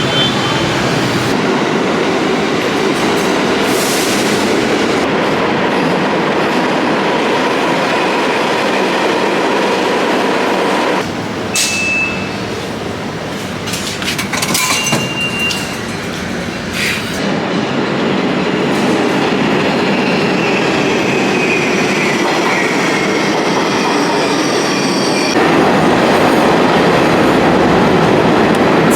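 New York City subway train running, a steady loud rumble with short high wheel squeals, a high whine falling in pitch past the middle, and the noise growing louder near the end.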